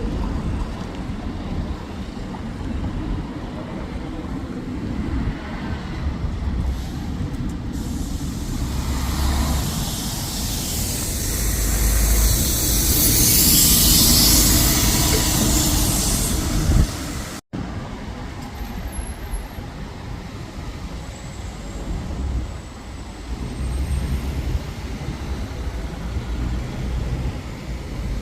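Roadside traffic rumble, with a vehicle passing close that swells to its loudest about halfway through. The sound cuts off abruptly a moment later before the traffic noise resumes.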